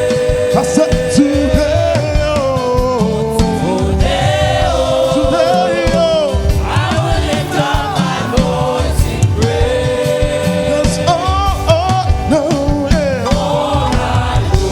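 Gospel choir singing a worship song over a live band, with long held and sliding vocal lines over a steady drum beat.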